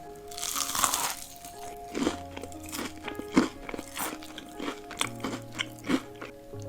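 Close-up crunching as someone bites and chews crunchy Hot Cheeto-coated food: a longer crackling crunch about a second in, then a run of short sharp crunches. Background music with steady held notes plays under it.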